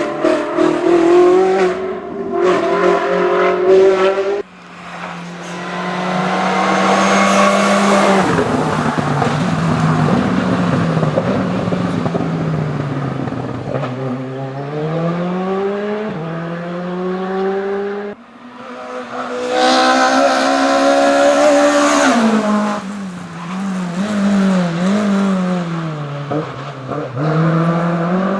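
Hill climb race car engines at full throttle, climbing in pitch and dropping back repeatedly through the gear changes. The sound cuts off abruptly twice, about four and eighteen seconds in, and starts again at a different pitch.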